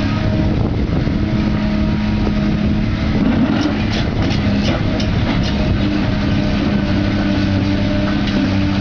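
Heavy construction machine's diesel engine running steadily at a constant pitch, with a series of short sharp knocks or clanks about halfway through.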